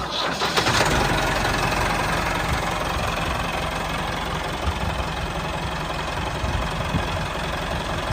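Tractor engine idling steadily with a fast, even chug, starting abruptly.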